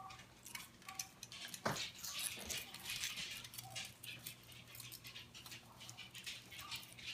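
Foil wrapper of a chocolate surprise egg crinkling as it is unwrapped, in light, irregular rustles, over a faint steady hum.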